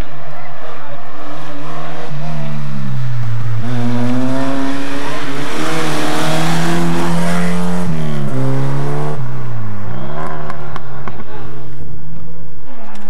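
Volkswagen Golf Mk1 rally car's engine revving hard as it accelerates up the hill and passes close by. The pitch climbs and drops sharply several times as the driver shifts gears and lifts for the bends. It is loudest about midway, as the car goes by.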